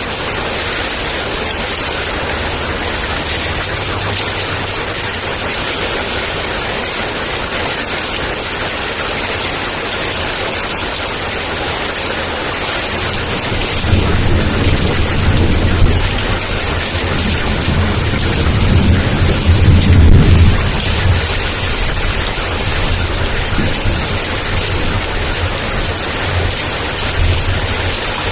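Heavy downpour of rain, a steady hiss throughout, with a low rolling thunder rumble that swells from about halfway in, peaks a few seconds later and fades out.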